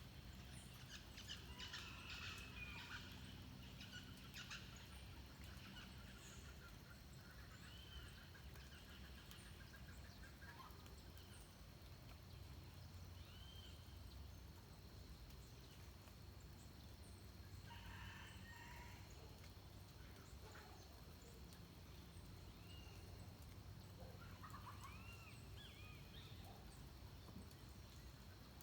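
Faint dawn birdsong in forest: scattered short whistled and chattering calls from several birds, busiest in the first few seconds and again near the end, over quiet steady background noise.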